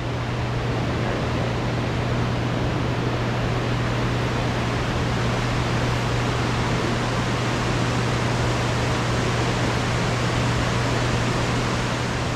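Steady rushing noise of a moving passenger railcar, with a constant low hum underneath; it fades out near the end.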